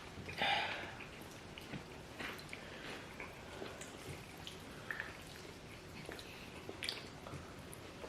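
Faint eating sounds of people chewing boiled yam and plantain with stew: soft wet mouth sounds and small scattered clicks, with one louder short mouth sound about half a second in.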